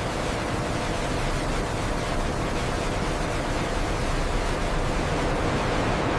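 Steady rushing noise from food-processing machinery running, with a faint hum underneath.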